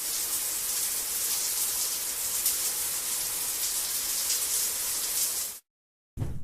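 Water running in a steady hissing spray, like a tap or shower, that cuts off suddenly about five and a half seconds in; a brief, different sound begins just before the end.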